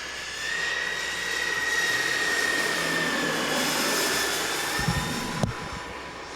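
Turbine engines of a large radio-controlled model jet whining as they spool up: the pitch rises at first, then holds and slowly eases as the sound swells and fades. A couple of short low thumps come about five seconds in.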